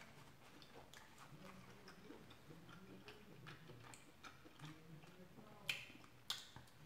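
Faint eating sounds: soft chewing and scattered mouth clicks, with two sharper smacks a little before the end.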